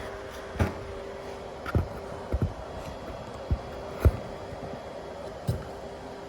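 TIG welding arc laying a finishing cap pass on a pipe joint: a steady hiss with a steady hum, broken by about seven short sharp clicks.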